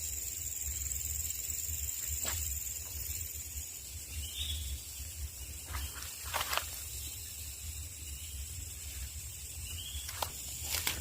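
Outdoor ambience of a rural garden: a steady high-pitched insect drone under a low rumble. A few sharp taps and faint short chirps come and go.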